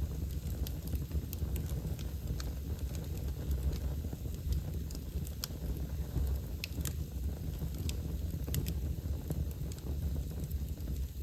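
Wood fire burning in a fireplace: irregular sharp crackles and pops, a few a second, over a steady low rumble.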